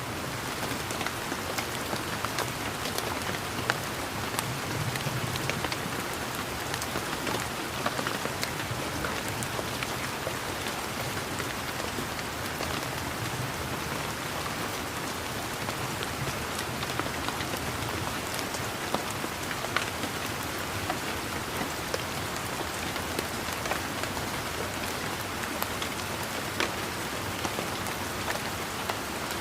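Steady rain falling on leaves and surfaces, a constant hiss with many separate drops pattering and ticking.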